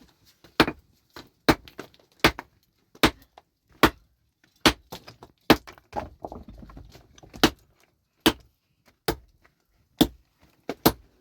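Repeated sharp blows of a hand tool striking something hard, about a dozen strong strikes at a steady pace of roughly one every 0.8 seconds, with lighter knocks in between.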